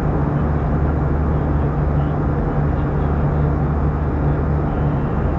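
Steady cabin noise of an Airbus A320-214 in flight: the drone of its CFM56 turbofan engines and rushing airflow, with a constant low hum underneath.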